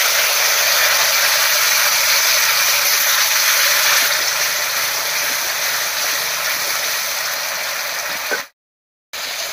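Ground mustard and cumin paste sizzling in hot mustard oil in a metal kadai, a loud, steady hiss that eases slightly over the seconds. Near the end the sound cuts out abruptly for about half a second.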